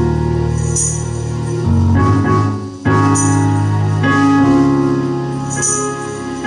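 Church music for a choir selection: sustained organ-like keyboard chords that change every second or two, with a brief high shimmer about every two and a half seconds.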